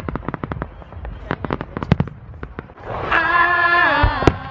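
Fireworks crackling: a rapid string of sharp pops and bangs. About three seconds in they give way to a held, pitched sound that steps down in pitch, with one more sharp bang near the end.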